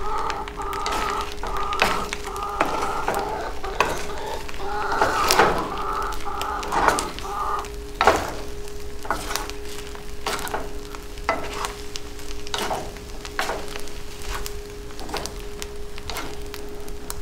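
Eggs frying in a hot pan: dense, irregular crackling and sizzling, with a wooden spatula stirring and scraping through them.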